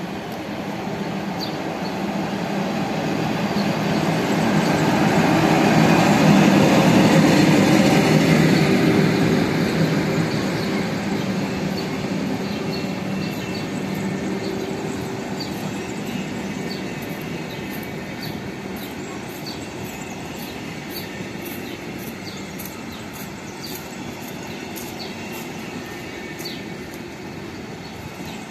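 A train rolling past: a steady rumble that swells to its loudest about six to eight seconds in, then settles to an even run of coaches on the rails, with regular light clicks from the wheels.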